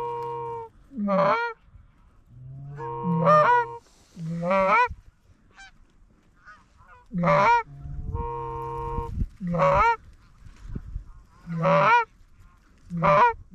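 Goose honks, one honk at a time, spaced a second or two apart, with a quicker run of honks near the end. Some honks open with a longer held note before breaking upward.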